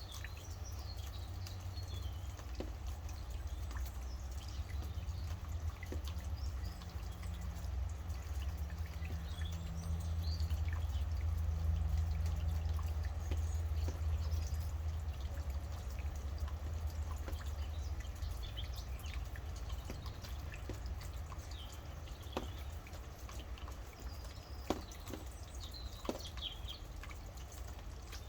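Rain dripping, with scattered sharp drops, and birds chirping now and then over a steady low rumble.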